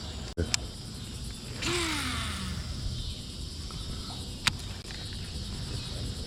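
Evening chorus of insects on a bayou: a steady high buzzing hum. A few sharp clicks or knocks come near the start and again past the middle, and a short swishing sound with a falling tone comes about two seconds in.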